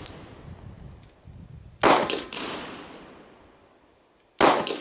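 Two pistol shots from a Glock 22 Gen4 chambered in .40 S&W, about two and a half seconds apart, each trailing off in an echo. A short high ping comes just after the start.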